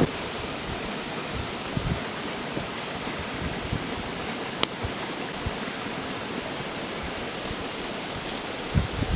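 Stream water running with a steady, even rushing hiss. There is a single sharp click about four and a half seconds in.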